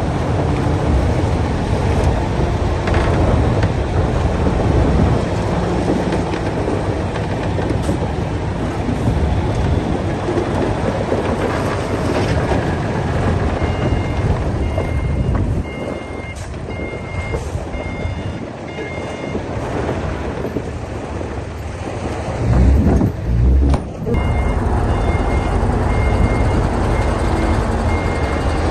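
Komatsu D60P crawler bulldozer's diesel engine running under load as it pushes soil. About halfway through, a reversing alarm starts beeping steadily, about once a second, and a short loud low surge comes near the end.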